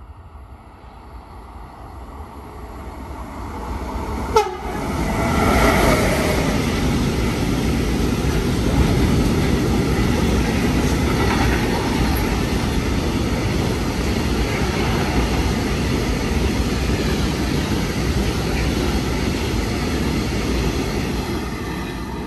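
A train running through a station without stopping: its noise builds as it approaches, with a brief horn blast about four seconds in. The rumble of wheels on rails then holds steady for some fifteen seconds and fades near the end.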